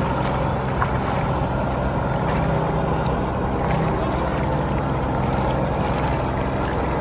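Heavy diesel engine running steadily at a constant speed, with faint clicks over it.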